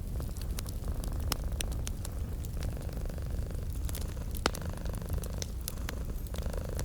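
Cat purring steadily in a low rumble, layered with the crackle and sharp pops of a wood fire, one pop standing out about four and a half seconds in.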